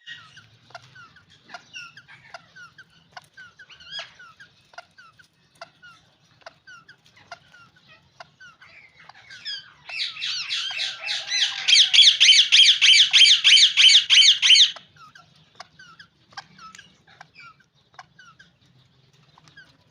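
Ringneck parakeets calling: scattered short chirps, then about halfway a loud rapid run of repeated calls, about three or four a second for some five seconds, before it drops back to scattered chirps.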